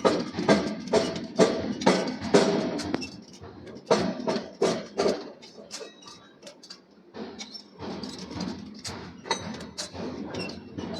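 Hammer blows on steel being forged, about two a second, each ringing briefly. After about three seconds they thin to a few scattered strikes, then faint clicks and knocks.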